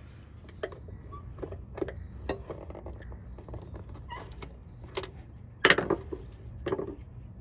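Irregular clicks and knocks of metal tools and parts being handled during mower repair work, loudest about six seconds in, over a steady low hum.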